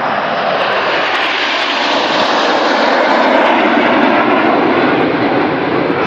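RAF Red Arrows formation of BAE Hawk T1 jets flying past, a loud, steady rushing jet noise that swells to its loudest about three to four seconds in and then eases slightly.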